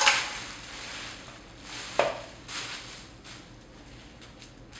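Handling noises of unpacking the lighting kit: rustling of packaging with small knocks and clatter, loudest at the start and a sharp knock about two seconds in.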